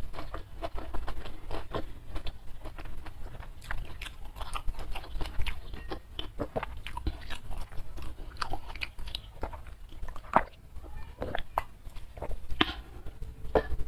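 A person chewing a mouthful of food close to a clip-on microphone, with many sharp, irregular mouth and teeth clicks several times a second.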